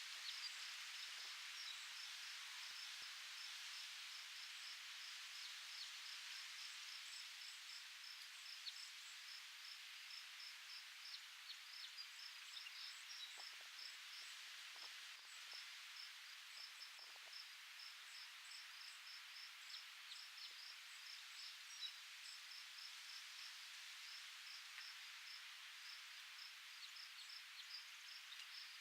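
Faint steady rustle of wind in foliage with an insect chirping in a regular high-pitched pulse, about three or four chirps a second.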